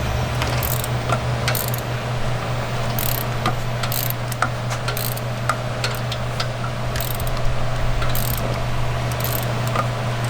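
Ratchet and hand tools clicking and clattering in short, irregular bursts over a steady low hum.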